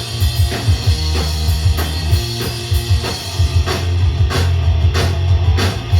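Live punk rock band playing an instrumental passage: distorted electric guitar and bass over a steady drum beat.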